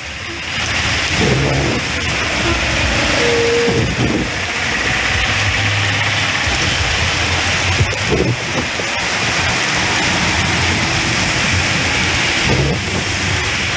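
Heavy rain falling on a city street with traffic: a steady hiss of rain, with vehicle engines and tyres running through standing floodwater.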